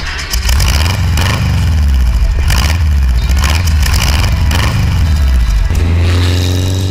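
Car engine running loudly and revving as the vehicle drives, with clattering over the ground. Near the end it settles into a steadier drone that rises slightly in pitch.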